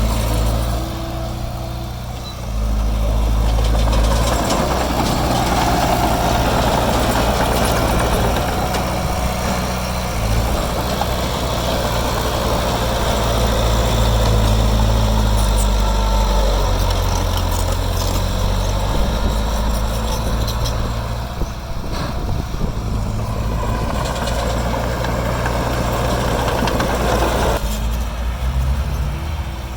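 Heavy diesel engine of construction machinery running steadily, with a rougher, noisier stretch through the middle that eases off near the end.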